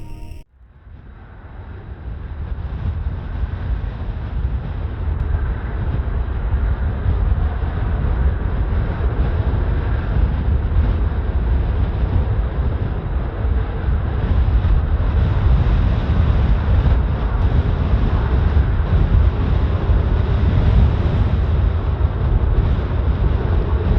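Strong gusting wind buffeting the microphone, a heavy low rumble that swells over the first few seconds and then stays steady.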